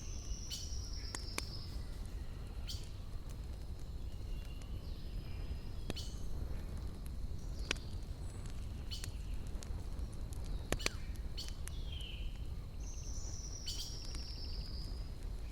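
Campfire burning with scattered sharp crackles and pops of wood over a steady low rumble, while forest birds sing, a high falling trill coming once at the start and again near the end.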